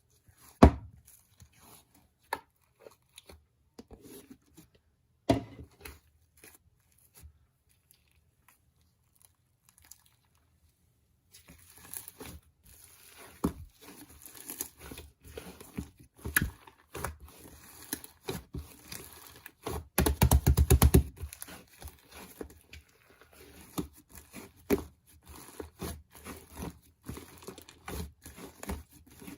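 Kitchen handling: scattered clicks and knocks at first, then from about eleven seconds in a continuous crackling sizzle of an egg frying in a pan, with small clatters and a loud burst around twenty seconds.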